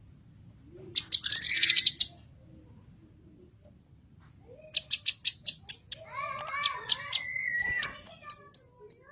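Blue-masked leafbird (cucak kinoy) singing. A fast rattling trill comes about a second in, then a quick run of sharp high chips, a varied warbling phrase and a few high notes near the end.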